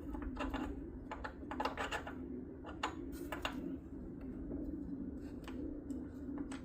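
Scattered light metallic clicks and taps of parts and hand tools as the carburetor float bowl is refitted on the snowblower's engine, denser in the first few seconds, over a steady low hum.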